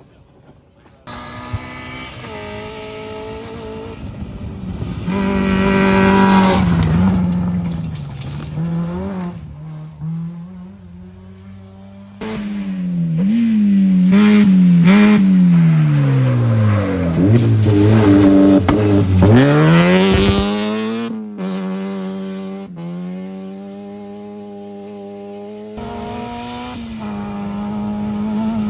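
Rally cars at full effort on a special stage, engines revving hard with quick gear changes. The pitch climbs, breaks and climbs again, and in the middle it falls steeply and rises again as a car slows and accelerates away.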